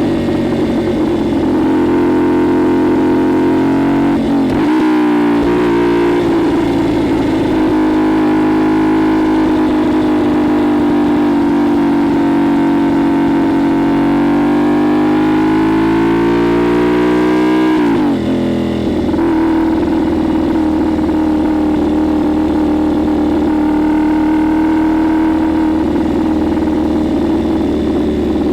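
CFMoto 450SS parallel-twin engine through a Leo Vince LV-10 slip-on exhaust, under way. Its pitch dips briefly about four seconds in, climbs slowly for a long stretch, then falls sharply about two-thirds of the way through and holds a steady lower note.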